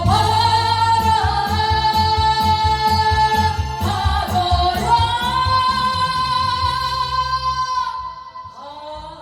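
A slow song with a woman singing long held notes over a steady pulsing beat; the accompaniment drops away near the end.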